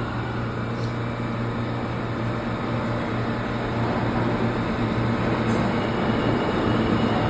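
New York City subway train rumbling through the station, with a steady low hum, growing gradually louder.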